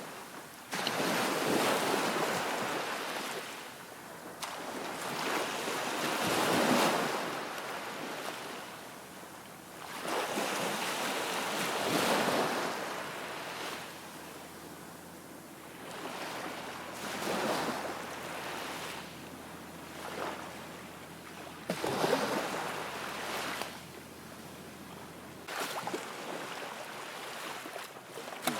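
Waves washing in, rising and fading in surges every few seconds, with wind on the microphone.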